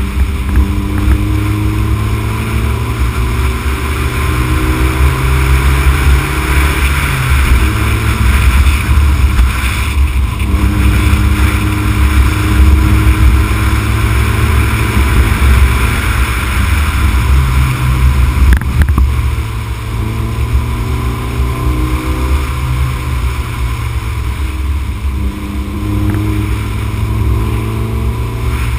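Honda Civic Type R EK9's 1.6-litre VTEC four-cylinder engine pulling under load, its pitch climbing and dropping back several times as the revs change. A heavy rumble of wind and road noise runs underneath.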